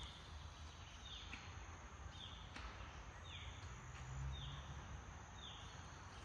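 A bird calling a short down-slurred note about once a second, six times, over a low outdoor rumble.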